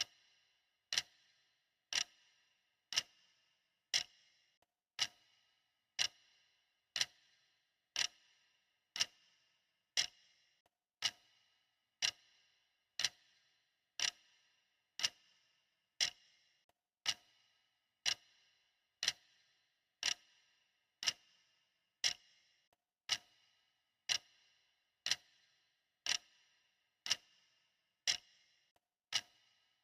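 Clock ticking steadily, about one tick a second, each tick a sharp click with a short ringing tail.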